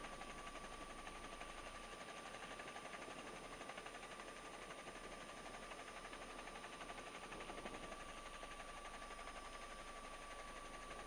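Faint steady hiss of an open radio or intercom audio channel, with a thin, unchanging high tone running through it.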